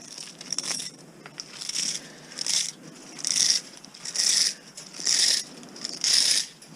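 Repeated crunching, scraping strokes, about one a second, as a tool works against the hard plastic casing of a washing-machine motor to break it loose from the windings.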